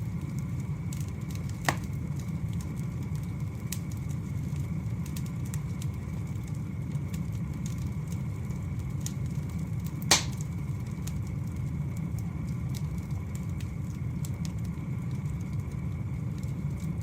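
Firewood fire burning with a steady low rumble and scattered faint crackles, and two sharp pops of burning wood, one about two seconds in and a louder one about ten seconds in.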